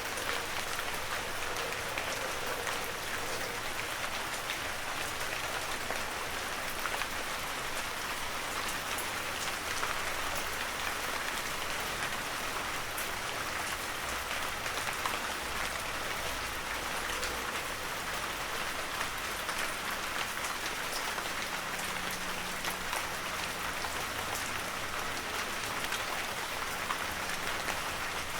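Heavy rain falling steadily, a dense, even hiss of countless drop impacts.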